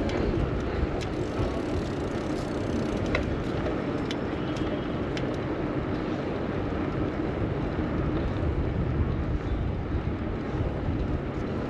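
Street traffic noise and wind on the microphone while riding a bicycle through city streets: a steady rumbling hiss with a few light ticks in the first half.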